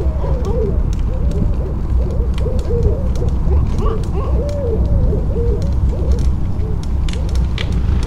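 Riding noise of a bicycle on pavement: a steady low rumble of wind and tyres, with a short wavering squeak-like tone repeating irregularly about once or twice a second and scattered light clicks.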